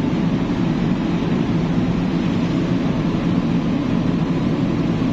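Steady low rumble of a ferry's engines and machinery running, heard on board the ship.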